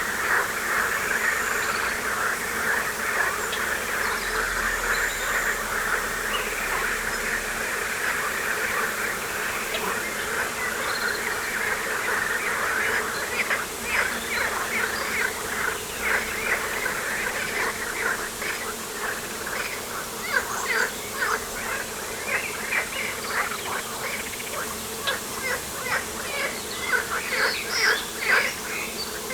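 A dense chorus of chirping animal calls, many short notes overlapping throughout. From about halfway in, the calls become more separate and sharper.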